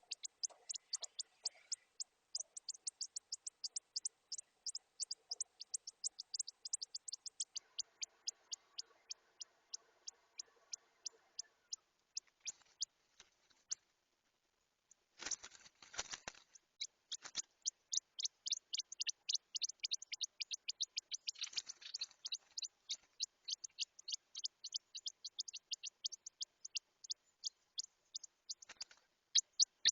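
Blue rock thrush chicks cheeping in a fast run of short, high notes, about five a second. The cheeping pauses for a moment, and a brief rustle or knock comes about halfway through.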